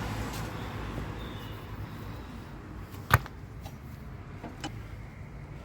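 Wheel brace working on a van's wheel nuts: a few light metal clicks and one sharp clink about three seconds in, over a low steady rumble.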